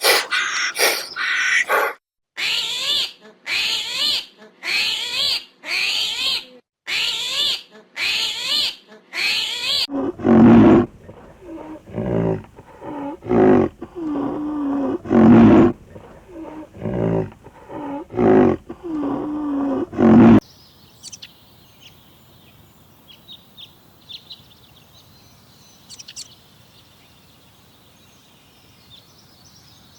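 Farm animals calling. First comes a run of about eight evenly spaced high calls. About ten seconds in, a lower-pitched animal calls over and over, its voice bending up and down. Near the twenty-second mark the calls stop, leaving a faint background with scattered small chirps.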